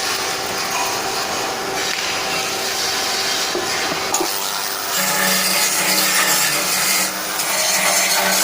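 Steady, loud workshop machinery noise with a constant hiss, joined about five seconds in by a low machine hum as the level rises.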